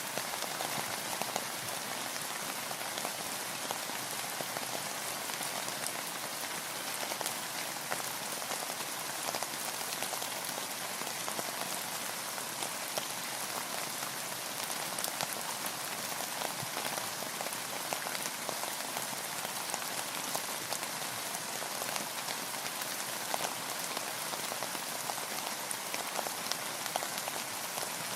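Steady rain falling on a boat and the water around it, an even hiss dotted with many sharp close drop hits, unchanging throughout.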